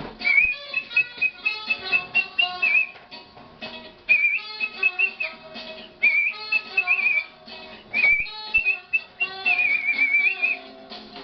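A person whistling a melody in short phrases of a second or two, with trills and wavering pitch, over a guitar accompaniment.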